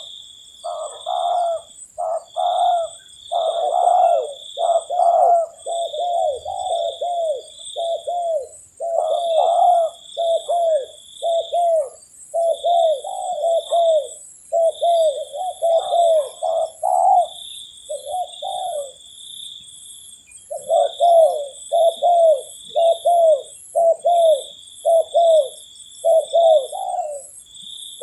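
Spotted doves cooing over and over, in short rounded coos about one to two a second, with a brief gap a little after two-thirds of the way through. A high steady tone pulses on and off in long bursts behind the calls.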